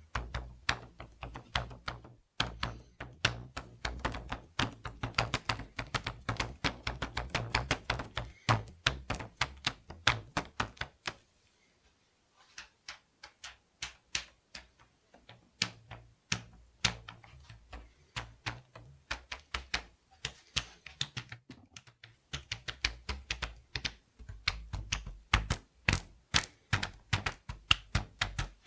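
Rubber bands being stretched and plucked, a fast run of sharp snaps over a low twanging vibration, with a brief pause about eleven seconds in.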